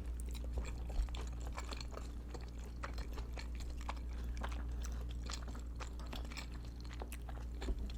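Close-miked chewing of dumplings: many small, irregular wet mouth clicks and smacks, over a steady low hum.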